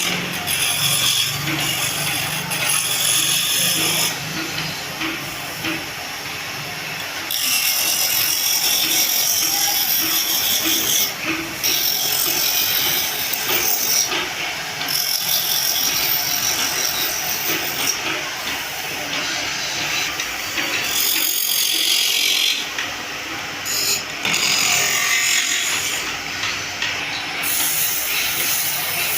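A woodworking power tool cutting or shaping wood with a high, hissing noise, in runs of a few seconds broken by short pauses.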